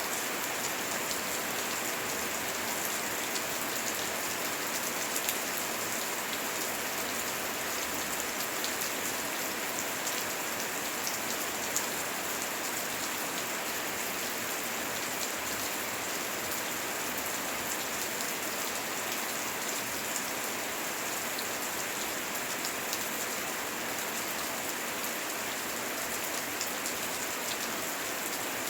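Steady heavy rain falling, a dense even hiss with the patter of many separate drops landing.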